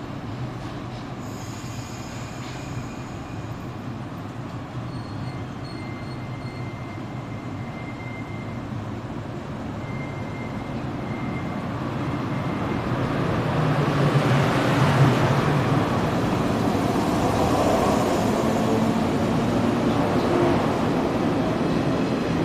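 JR 115-series electric train pulling out of the station: a steady low hum at first, then motor and wheel noise building from about halfway through as it accelerates toward and past, loudest in the second half.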